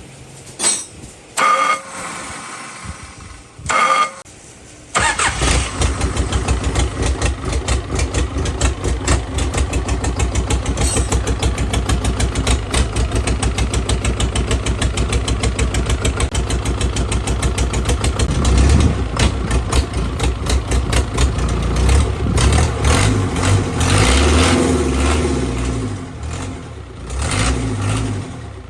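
A few short sounds, then a rebuilt Hyundai diesel engine starts about five seconds in and runs with a rapid, even knock. Its speed and note change in the last third.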